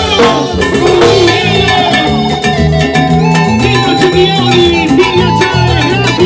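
A band playing upbeat Latin dance music, with a steady percussion beat, shakers, bass and melodic instruments.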